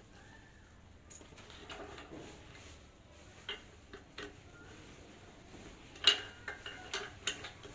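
Scattered metallic clinks and taps of metal parts and tools being handled, with a cluster of sharper knocks from about six seconds in.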